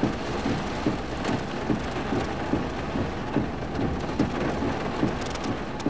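Heavy thunderstorm rain driven by strong wind, pelting the car with a dense, steady hiss and many irregular sharp patters of drops, several a second.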